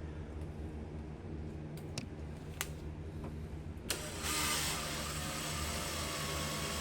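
A few light clicks, then a cordless drill/driver running steadily for about three seconds, starting a little past halfway, as a screw is driven into a door hinge.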